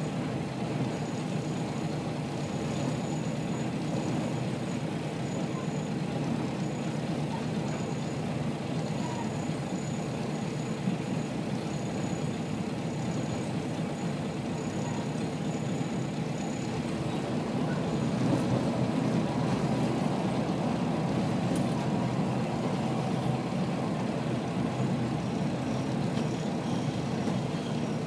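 Kashima Rinkai Railway 6000 series diesel railcar running, heard from inside the cabin: a steady engine and rail noise that grows a little louder about two-thirds of the way through.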